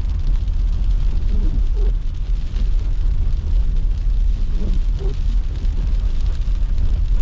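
Car driving along a snowy road: a steady low rumble of engine and road noise.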